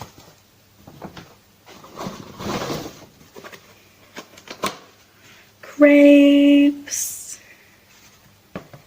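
A woman's voice hums a held, approving 'mmm' for about a second, two-thirds of the way through, amid soft clicks and rustles of food being handled and eaten.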